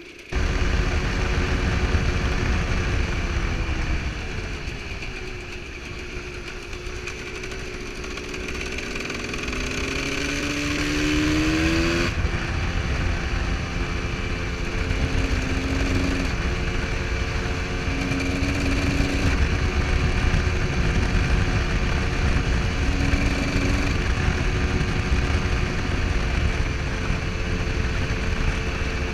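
Husqvarna SM125's single-cylinder two-stroke engine running while riding, its pitch rising as it accelerates through a gear from about eight to twelve seconds in, then holding fairly steady revs.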